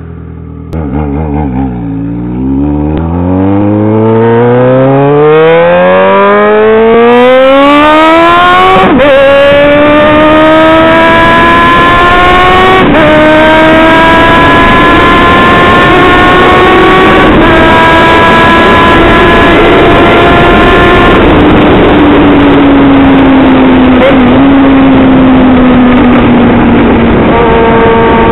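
Yamaha XJ6's inline-four engine, run without its exhaust baffle, pulling away hard under throttle: the note climbs steadily through first gear, then the rider shifts up four times, the pitch dropping at each shift and climbing again. Over the last several seconds the throttle eases off and the note sinks slowly.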